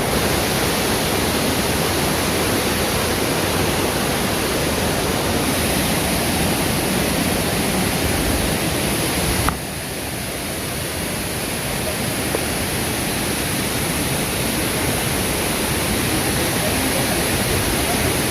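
Waterfall rushing, a steady even wash of falling water. The sound steps down suddenly about halfway through and then carries on a little quieter.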